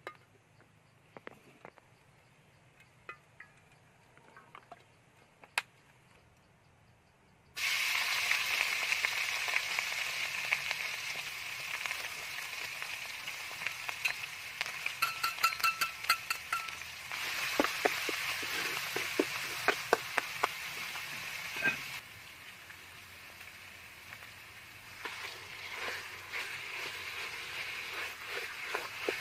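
Quiet with a few faint clicks, then about a quarter of the way in, chopped lemongrass hits hot oil in a metal wok and starts sizzling. A metal spatula scrapes and clinks against the wok in quick strokes as it is stirred. The sizzle drops off about three-quarters of the way in and rises again near the end with more spatula scraping as fish-cake paste is stirred in.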